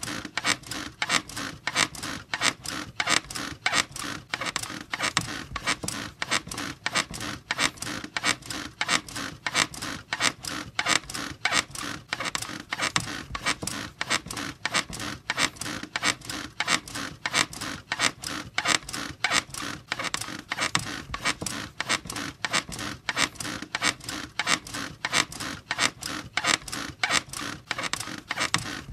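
Bed squeaking in a fast, even rhythm, about two or three squeaks a second.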